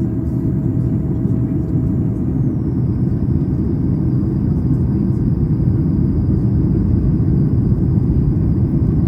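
Steady cabin noise inside a Boeing 737 MAX 8 during descent: a deep rumble of airflow and the CFM LEAP-1B engines. A faint high whine drops slightly in pitch about two and a half seconds in.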